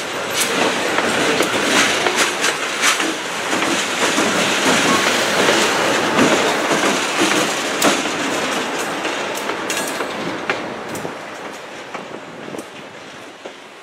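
Freight train's last boxcars and a GE C39-8 diesel locomotive rolling past, steel wheels clicking over the rail joints and crossing. The sound fades steadily over the second half as the train moves away.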